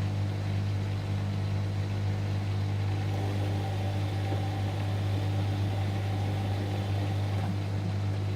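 Whirlpool washing machine running mid-cycle on a delicate programme, a steady low hum with no break.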